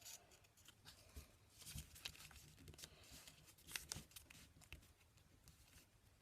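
Origami paper being handled and folded: faint rustling and crinkling, with a few sharper crackles about two seconds in and again near four seconds.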